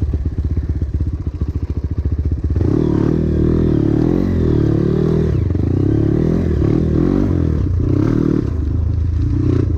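Trail motorcycle engine running at low revs with a steady pulsing beat. About two and a half seconds in it gets louder and revs up, its pitch rising and falling with the throttle as the bike rides on.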